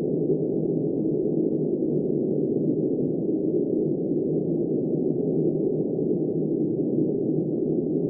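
Steady, muffled wind rush, even in level and without any hiss or gusting.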